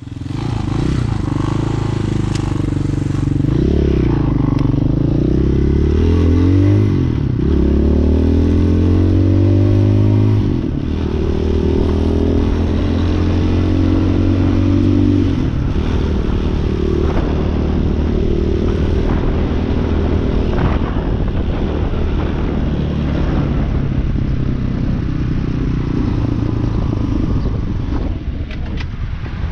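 Hawk 250cc dual-sport motorcycle's single-cylinder engine running under way, revving up and down repeatedly through roughly the first ten seconds, then holding a steadier pitch with a drop and a few changes in speed, with some clatter and scraping alongside.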